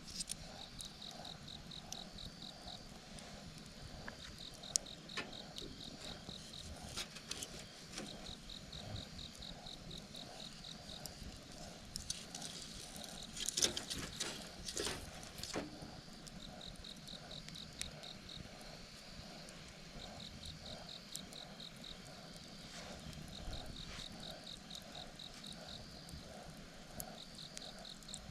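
Insects chirping in repeated trains of rapid pulses, each train about two seconds long with short gaps between. A wood fire crackles and pops now and then, with a louder cluster of pops about halfway through.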